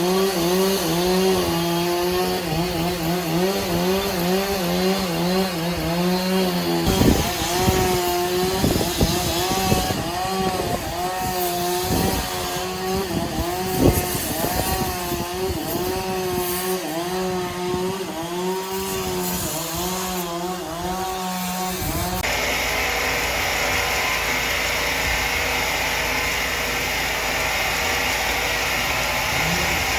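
Chainsaw running under load, its engine pitch wavering up and down as it cuts wood, with a few sharp knocks in the middle. About two-thirds of the way through it cuts abruptly to a different steady machine noise.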